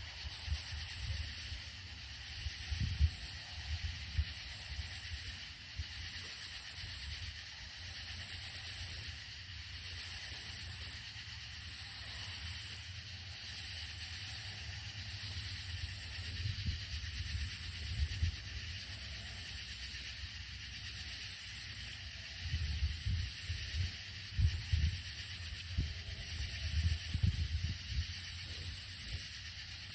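Cicadas singing in a steady rhythm: a high-pitched buzz about a second long, repeating roughly every second and a half to two seconds, over a fainter steady insect chorus.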